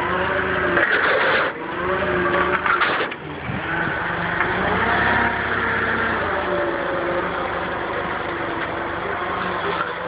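Vehicle engine running and working while the vehicle maneuvers with a load, its pitch rising and falling. Two short noisy bursts come in the first three seconds.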